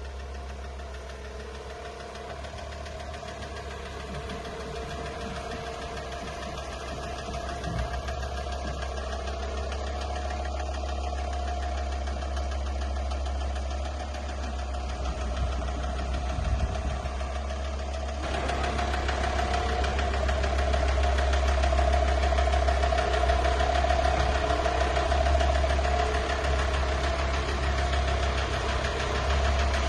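Volkswagen T5 van engine running steadily at idle, getting louder about two-thirds of the way through; the owner says the van has a crankshaft problem.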